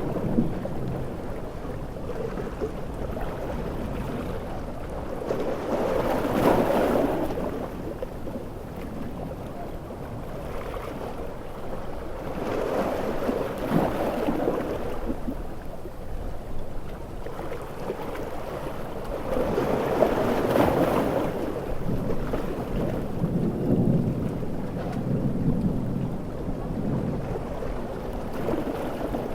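Large ocean waves surging and breaking about every seven seconds over a steady wash of heavy rain, with thunder rumbling low in the background.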